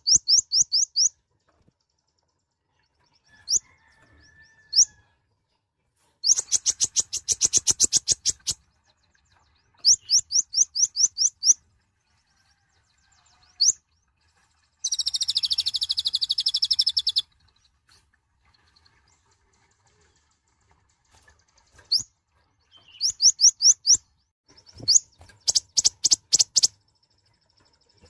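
Kolibri ninja, a small sunbird, singing in bursts of rapid, high-pitched chirps with short pauses between them, and one longer buzzy trill about halfway through.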